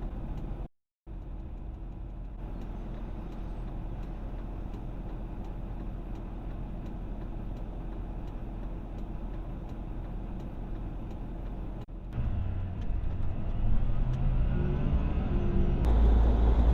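Car driving on the road, heard through a dashcam: steady engine and tyre noise. The sound breaks off briefly about a second in, then a louder, deeper rumble takes over near twelve seconds and grows stronger near the end.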